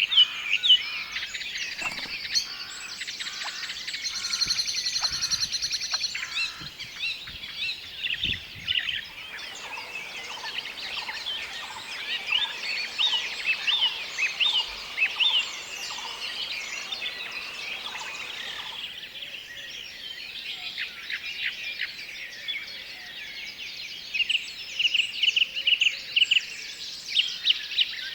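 Several birds calling and singing at once: a dense run of short chirps and whistles, with a fast, high trill about four seconds in and repeated loud, sharp chirps near the end.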